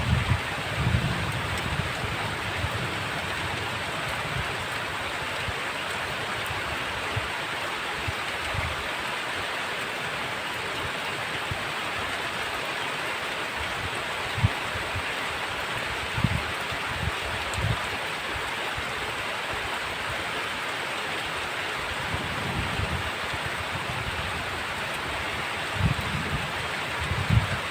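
Heavy rain falling steadily, a dense even hiss. Scattered short low thuds sound through it, clustered near the start and again in the last few seconds.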